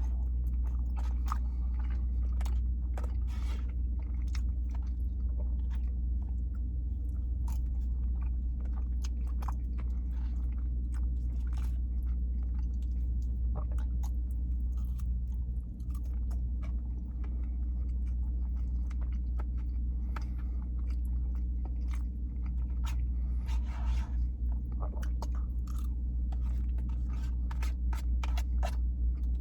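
Close-up chewing and mouth sounds of someone eating loaded pollo asada fries, with many small clicks, crunches and scrapes scattered throughout. A steady low hum runs underneath.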